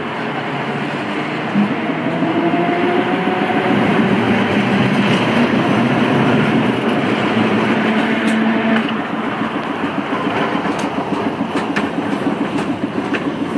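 New Orleans St. Charles streetcar running along its rails: a steady rumble with faint whining tones in the middle, and a rhythmic clatter of the wheels setting in during the second half.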